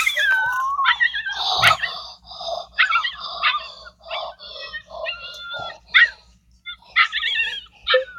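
A dog yipping and whimpering in a string of short, high calls that bend in pitch.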